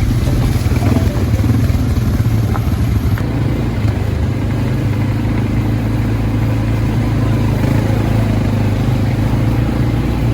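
Quad bike engine running steadily with a constant low hum.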